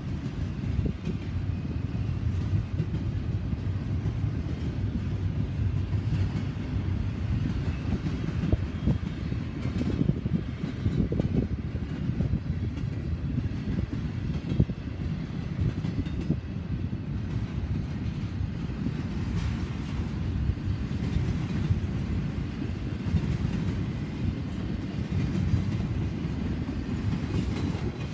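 Double-stack intermodal freight train's well cars rolling past: a steady rumble of steel wheels on rail with rapid clicking and clatter.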